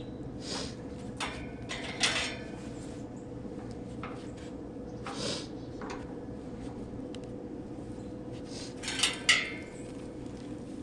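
Scattered metal clanks and rattles from handling the heat pump's condenser fan motor assembly and its hardware, the loudest about two seconds in and a sharp pair near the end, over a steady low hum.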